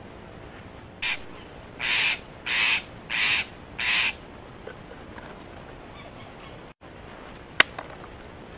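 A bird calling in a quick series of harsh, noisy calls: a short one about a second in, then four longer ones about two-thirds of a second apart. A single sharp click comes near the end.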